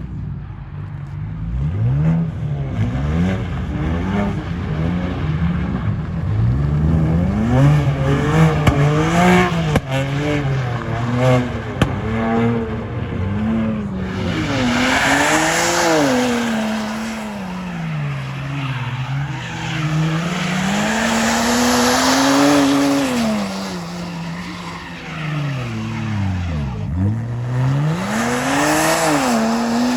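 A car's engine being revved hard, its pitch swinging up and down over and over, with tyres squealing and skidding loudly from about halfway through as the car drifts.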